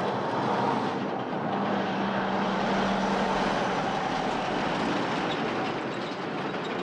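A big truck on the move: steady engine and road noise with a faint steady hum through it.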